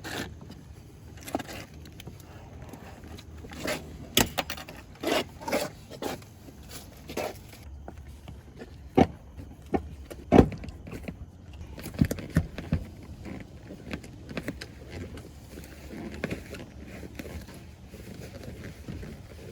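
Irregular metallic clinks, knocks and scrapes of hand tools at work on a car, with a handful of sharper knocks scattered through.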